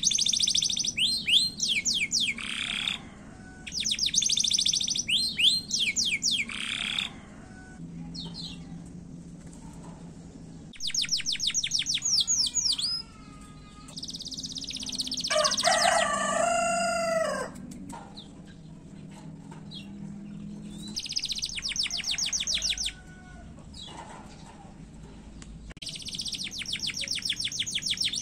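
Domestic canary singing in repeated bursts of very fast, high trills, with short pauses between bursts. About halfway through comes a louder, lower-pitched call drawn out in a series of falling arcs.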